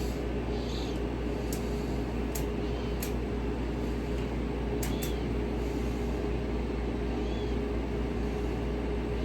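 A running household appliance giving a steady low hum with one constant tone, with a few faint light clicks over it.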